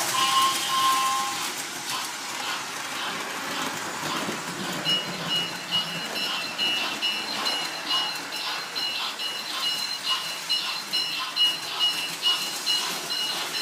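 Toy train set running, with a steady clatter of small clicks from the wheels and track. From about five seconds in, a rapid, repeating high electronic beeping joins it.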